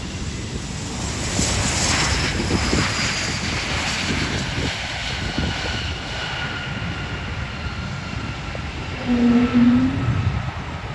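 An aircraft passing by: a steady engine rumble with a high whine that slowly falls in pitch as it goes past. About nine seconds in there is a short low tone, briefly the loudest sound.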